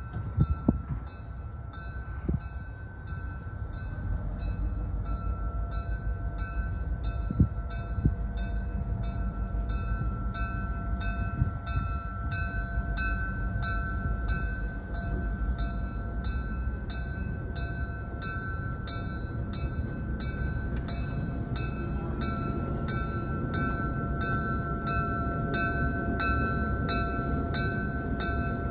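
A train running, with a bell ringing steadily over it at about one and a half strikes a second; the train grows louder a few seconds in.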